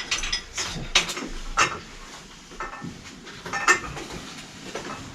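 Metal tools and parts clinking and clattering as they are handled, with about four sharp clinks among smaller knocks.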